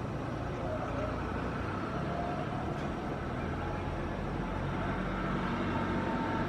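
Boeing 737-800's CFM56 turbofan engines running with a steady rumble and a faint whine, growing slowly louder.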